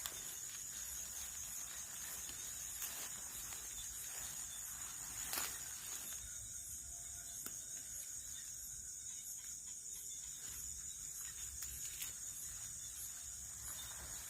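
Insects, crickets, trilling steadily at a high pitch, with a few scattered clicks and rustles, the loudest about five seconds in.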